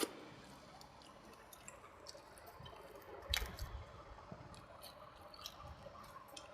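Close-miked wet chewing and mouth smacking of rice and vegetable curry, with many small mouth clicks and two sharper clicks, one at the start and one a little past the middle.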